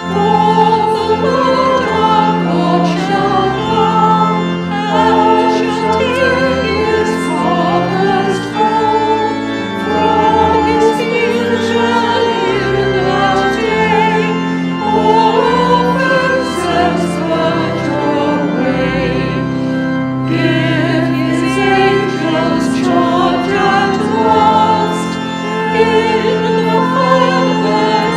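Choir singing a hymn with organ accompaniment, voices holding sustained notes over steady low organ tones.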